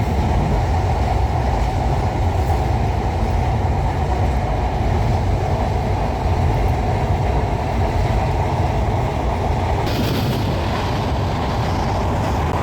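Passenger train running at speed: a steady, loud rumble of wheels on the rails, with a hiss that comes in over the top about ten seconds in.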